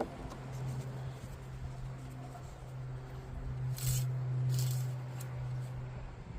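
An engine oil dipstick being wiped off, a few short scratchy rubs around the middle, over a steady low hum.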